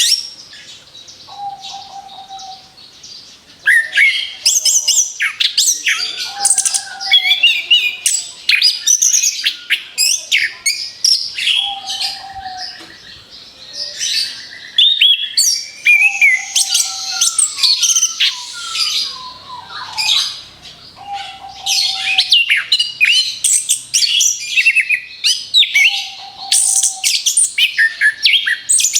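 Orange-headed thrush singing a long, fast, varied song of rapid-fire phrases, the burst-style 'tembakan beruntun' delivery used in lure recordings for cage birds. A short low whistled note recurs about every five seconds beneath it.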